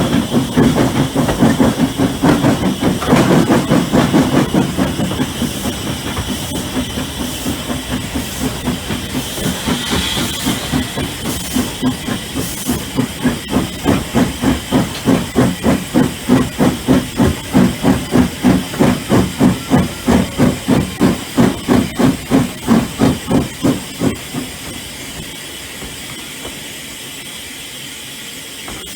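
Hunslet 0-6-0 saddle-tank steam locomotive working, with even exhaust beats at about three a second over a steady steam hiss. The beats stop suddenly near the end, leaving only the hiss.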